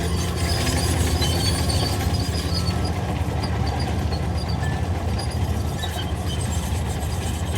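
Heavy diesel earthmoving machine running steadily with a deep engine hum, and scattered light metallic squeaks and clinks over it.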